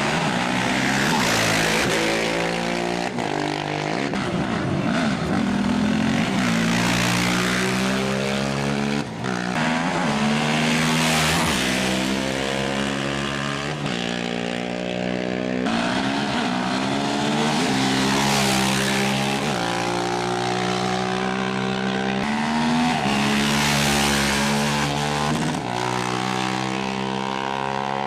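Off-road race motorcycle engines revving hard and shifting up through the gears, pitch climbing and dropping back repeatedly, with surges of noise as bikes go by.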